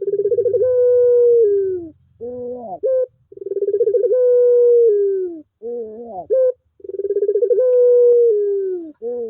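Puter pelung (a domestic ringneck dove breed) cooing: short rising notes followed by a long, drawn-out coo that holds its pitch and then slides down at the end. The phrase comes three times.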